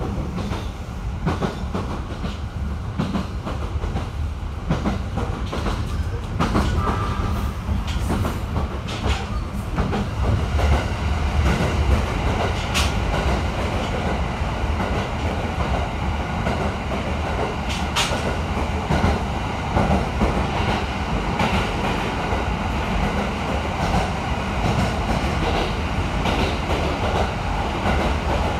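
209-series electric commuter train running, heard from inside the car: a steady rumble of wheels on rail with scattered clicks and knocks from the track, two sharper ones about halfway through.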